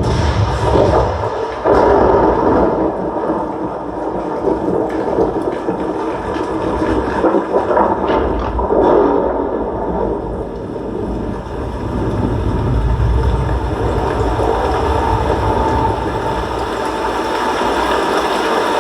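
A loud cinematic sound-effects track with a deep rumble, thunder-like crashes and swells and no dialogue, played through the LG S70TY 3.1.1 soundbar as a sound test. It surges suddenly at the start and again about two seconds in.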